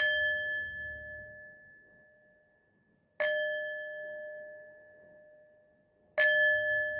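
A meditation bell struck three times, about three seconds apart; each strike rings on with a low and a higher steady tone that slowly fades.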